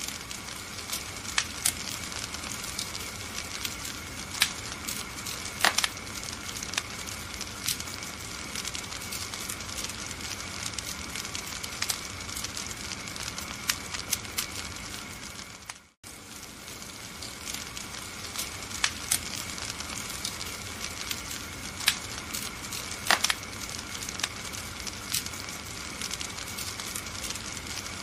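Wood fire burning in a fireplace: a steady hiss with frequent sharp crackles and pops. The sound drops out for a moment about halfway through, then resumes.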